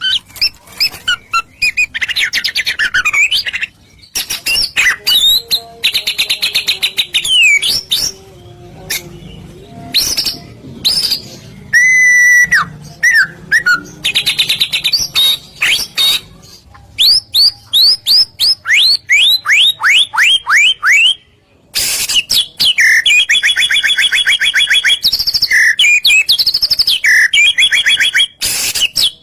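White-rumped shama (murai batu) singing a loud, varied song of whistled phrases. Midway comes a rapid run of downward-sweeping notes, and near the end a long fast chattering trill.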